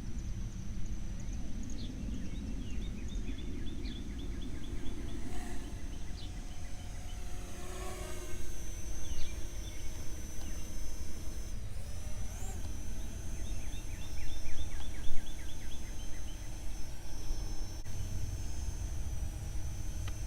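Parrot Anafi quadcopter flying, its propellers giving a steady high whine that briefly rises in pitch about twelve seconds in and again at the end as it speeds up.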